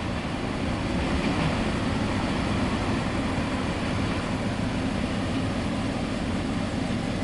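CSX local freight train rolling past, its cars making a steady rumble of wheels on rail.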